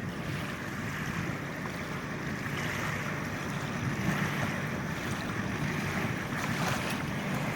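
Wind buffeting the microphone over the steady wash of lake water.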